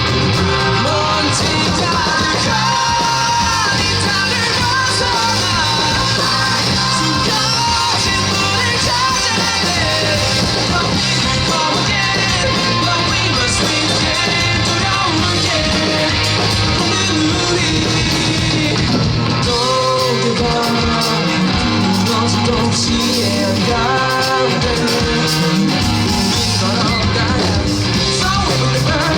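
Rock band playing a song live, with a singer's vocals over electric guitar and band accompaniment, loud and continuous.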